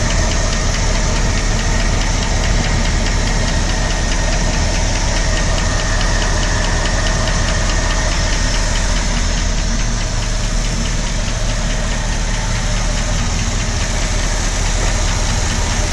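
Ford 352 FE V8 running steadily with a rapid, even ticking over the engine note, the tick the owner is trying to trace.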